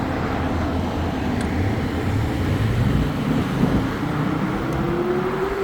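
Steady road-traffic noise, with a faint tone slowly rising in pitch over the second half.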